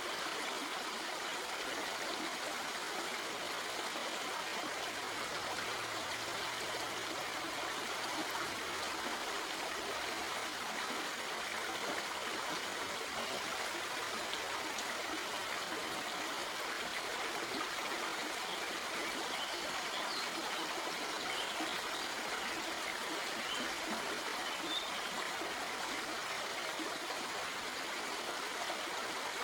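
Shallow stream flowing and trickling over rocks, a steady even rush of water.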